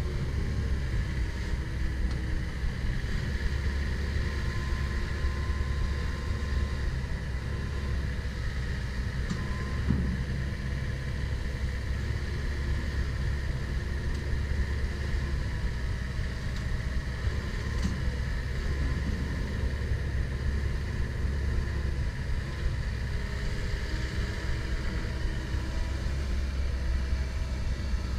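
Komatsu PC170LC-10 excavator's diesel engine running steadily under work, a constant low rumble with a steady high whine above it and a couple of faint clicks.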